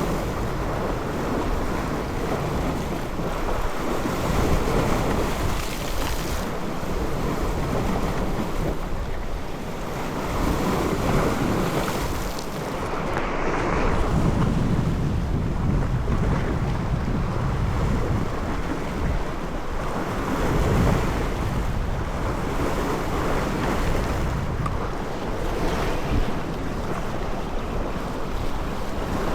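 Wind buffeting the microphone over the wash of sea waves. It swells and eases every few seconds.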